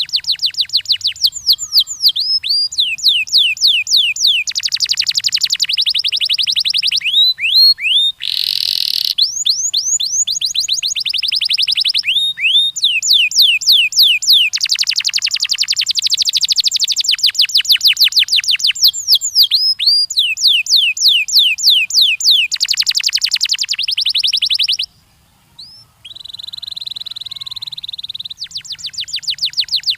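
Domestic canary singing: fast series of high, downward-sweeping whistled notes and buzzy rolling trills in phrases, with a brief break about 25 seconds in.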